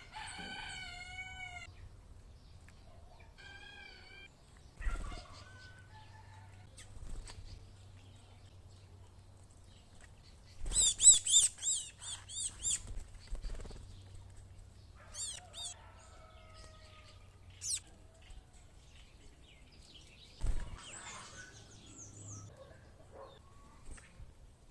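Birds calling at a feeding box: scattered wavering calls and whistles, with a loud run of quick high chirps about eleven seconds in. A few dull thumps are mixed in, the sound of wings flapping as birds land and take off.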